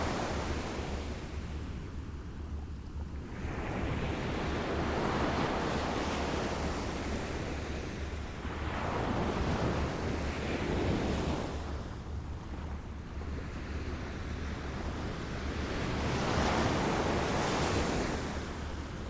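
Small waves lapping, each wash of water swelling and fading every four to six seconds over a steady low rumble.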